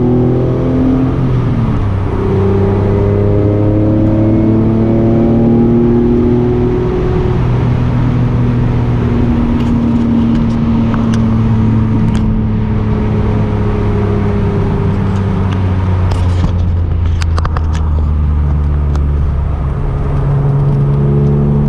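Acura NSX's V6 engine through a newly fitted aftermarket exhaust, heard from inside the car while driving. It revs up and drops in pitch at a gear change about two seconds in, then holds and slowly falls as the car eases off, and picks up again near the end. A few light clicks or rattles come in the second half.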